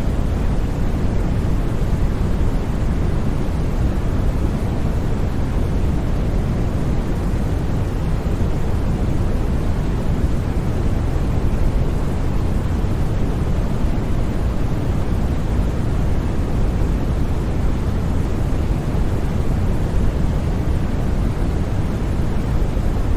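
Steady, unbroken white noise for sleep: an even hiss with most of its weight in the low end, never changing in level or character.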